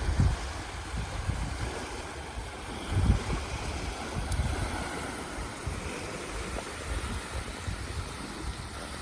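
Wind buffeting the microphone in irregular low gusts over a steady wash of sea surf.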